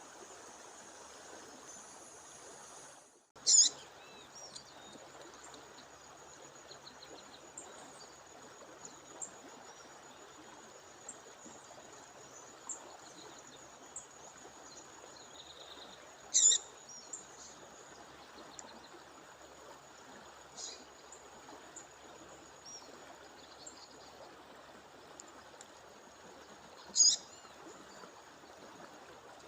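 A bird gives three loud, short, sharp calls about every ten to thirteen seconds, with softer chirps in between, over the steady rush of a stream or waterfall. A thin, steady high-pitched whine runs under it all.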